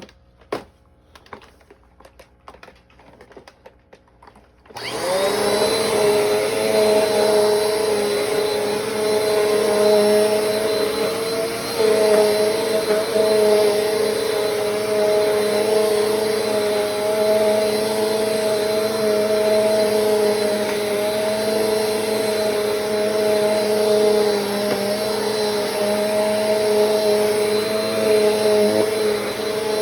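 Bissell PowerForce Compact 2112 upright vacuum cleaner switched on about five seconds in, coming up to speed almost at once and then running steadily with a constant hum and a faint high whine, a motor the owner calls shot. A few light clicks of handling come before it starts.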